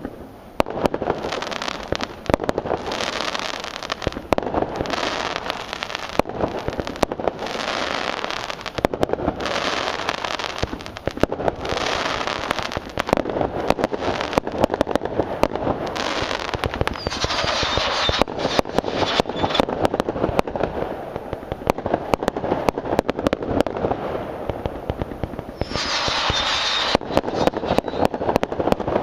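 Fireworks display: a continuous barrage of sharp bangs from bursting shells with crackling between them, and a high whistling tone a little past halfway and again near the end.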